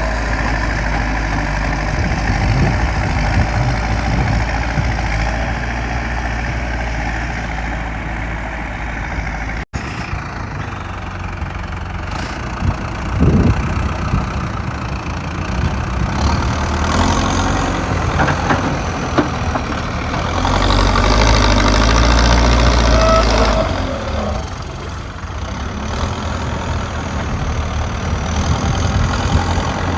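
JCB digger's diesel engine running steadily with the low rumble of heavy machinery. It cuts out for an instant about ten seconds in, and gets louder and deeper for a few seconds about two-thirds of the way through as the machine works harder.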